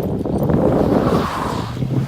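Pickup truck engine revving hard under load, with wind buffeting the microphone; the engine note eases lower near the end.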